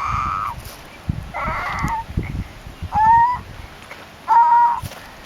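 A bird gives four short honking calls, about a second and a half apart.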